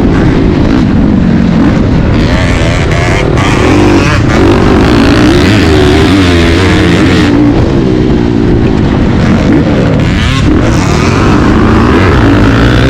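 Motocross dirt bike engine running loud and hard, its pitch rising and falling again and again as the throttle is opened and closed.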